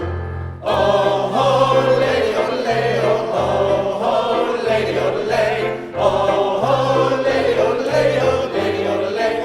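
Choir singing with instrumental accompaniment over a steady bass line, with a brief dip just after the start before the music comes back in.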